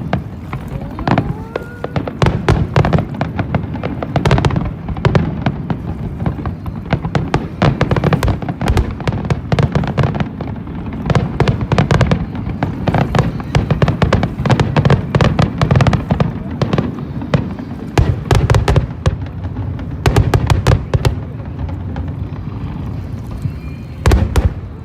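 Fireworks display bursting continuously: dense, rapid bangs and crackles overlapping one another, with deep low thuds under them.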